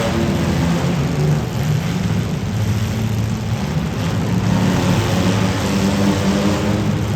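Demolition derby cars' engines running and revving, several engine notes overlapping and rising and falling in pitch.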